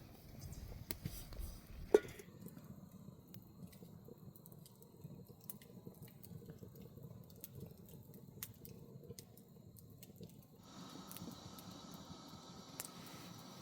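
Faint crackling of a wood fire, with scattered small pops and one sharp crack about two seconds in, over a low steady rumble.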